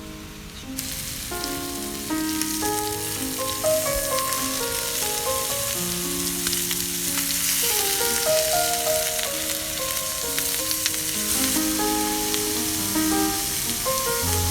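Food sizzling and crackling in a hot pan, starting suddenly about a second in, under soft melodic background music.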